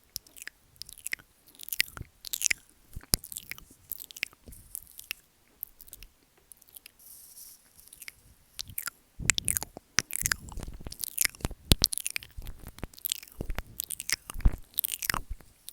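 ASMR mouth sounds close on the microphone: wet clicks, smacks and licking or nibbling of the mic, irregular and close together, busier and louder in the second half.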